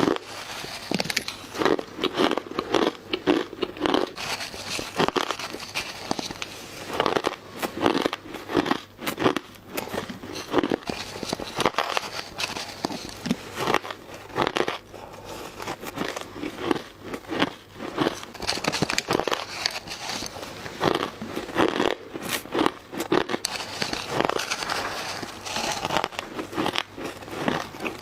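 Ice being bitten and crunched close to the microphone: a run of crisp, crackling bites in quick clusters.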